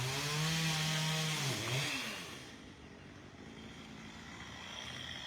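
Two-stroke chainsaw running at high revs, then dropping in pitch as the throttle comes off about a second and a half in, fading to a quieter running sound.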